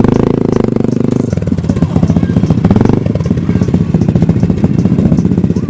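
A piston engine running loud and steady with a fast firing beat, its note changing about a second in.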